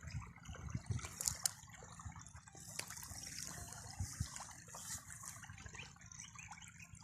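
Flood irrigation water flowing and trickling steadily, with scattered small splashes.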